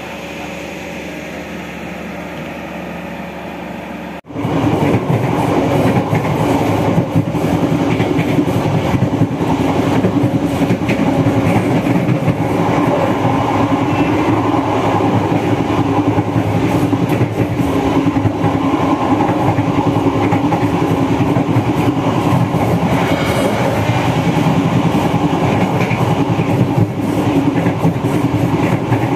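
Steady hum for about four seconds, then after a sudden cut a passenger train carriage running at speed: a loud, continuous rumble and rattle of wheels on the rails with some clickety-clack.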